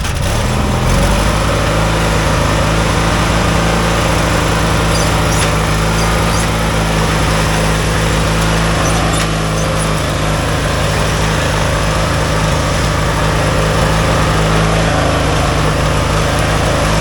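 A racing lawn mower's small engine running loud and close at a steady speed, coming in sharply at the start.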